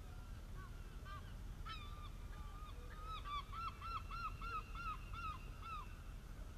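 A bird calling: a few single calls, then from about three seconds in a run of about eight arched notes, about three a second, over a low steady background rumble.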